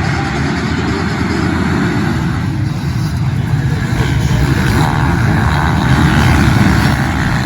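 Motocross motorcycles running on the track, a dense, steady engine noise that grows a little louder about two-thirds of the way through.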